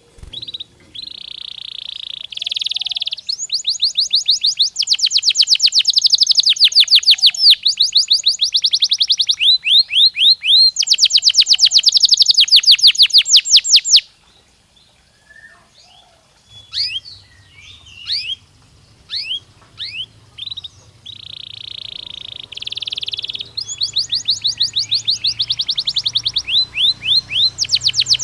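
Domestic canary singing: long rolling song phrases of buzzy notes and fast, high trills of repeated notes, broken by a pause of a few seconds with only scattered chirps midway. A faint low hum runs underneath in the second half.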